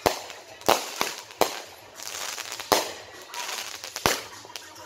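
Fireworks going off: five sharp bangs at uneven intervals, about a second or so apart.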